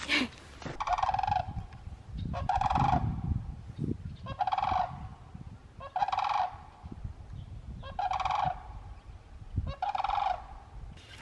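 Large birds calling: six harsh calls of under a second each, one about every one and a half seconds.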